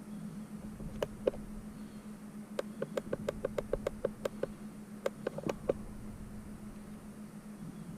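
Steady low hum of a running geothermal heat pump, with short sharp clicks over it: a pair about a second in, then a quick run of about six a second, and a few more a little later.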